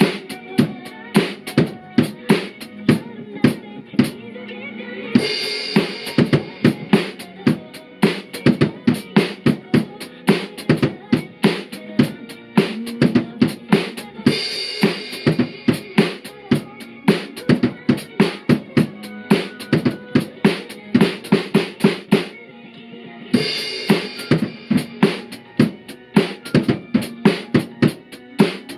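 Drum kit played along to a pop song's backing track: bass drum, snare and rimshot hits in a steady beat, with cymbal-heavy passages coming in several times.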